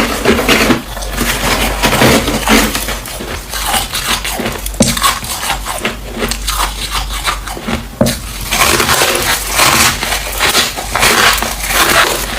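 Close-miked crunching of freezer frost being bitten and chewed: dense, irregular crackling with many sharp little cracks, busiest in the last few seconds.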